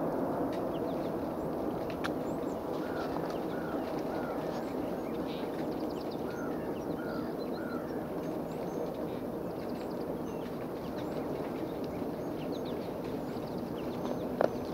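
Birds chirping and calling, with two runs of three short calls a few seconds in, over a steady low rumble. A single sharp click sounds near the end.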